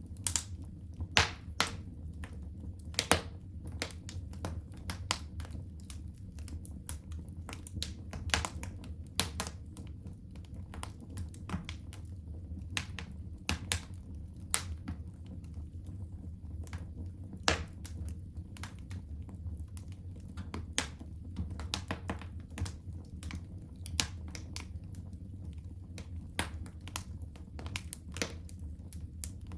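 Wood fire in a home fireplace crackling: irregular sharp pops and snaps over a steady low rumble of the flames.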